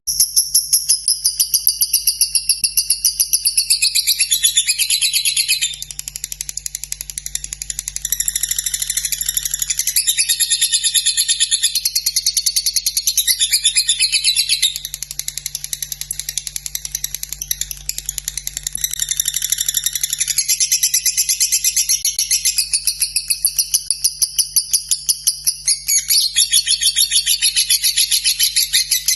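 Lovebird 'ngekek': a long, unbroken, high-pitched chattering song of rapid repeated notes, changing its pattern every few seconds.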